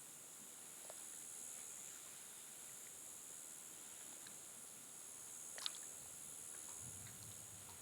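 Quiet night ambience: a faint, steady high-pitched hiss with a few light ticks and one sharp click about five and a half seconds in.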